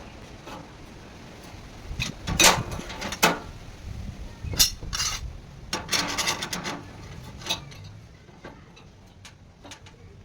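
Irregular knocks, clinks and short scrapes of metal parts and tools being handled, several in quick clusters in the middle, thinning out to faint ticks near the end.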